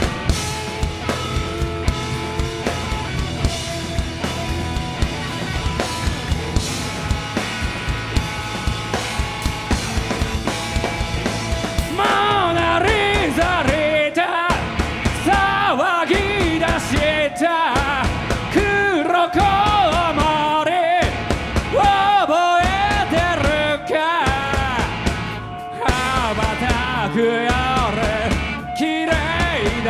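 Live rock band playing garage/punk rock with drums, bass and guitars. About twelve seconds in, a loud wavering lead line with bending pitch comes in over the band.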